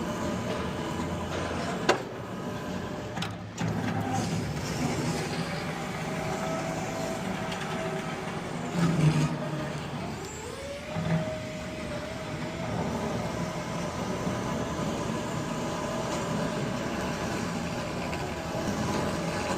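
Steady mechanical rumble and hum of machinery running, with a sharp knock about two seconds in and a brief louder swell with a rising tone around ten seconds.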